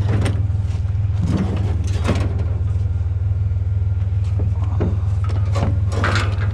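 Vehicle engine idling steadily with a low hum, under several short clunks and rattles of scrap items being handled and shifted.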